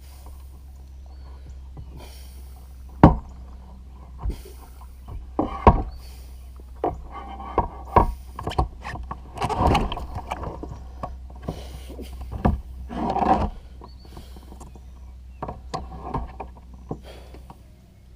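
Irregular knocks, bumps and short splashes on a kayak, picked up by a camera mounted on its bow, over a steady low rumble.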